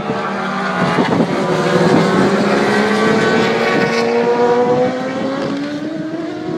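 A pack of 1000cc superbikes at racing speed, several engines heard together, their pitch rising steadily as they accelerate.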